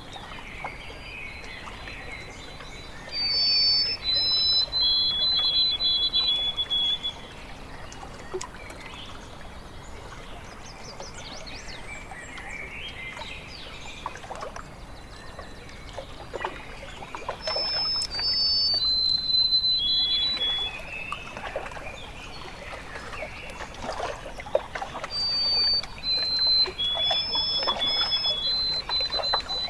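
A songbird singing a phrase of clear whistled notes that step down in pitch, three times about ten seconds apart, over water trickling and lapping at the shore.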